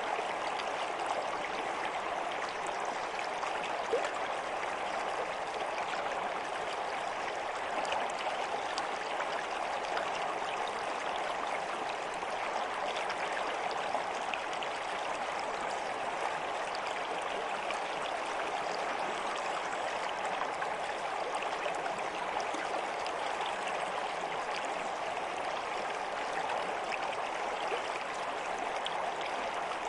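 Stream water flowing steadily: an even rush with small splashy flecks throughout.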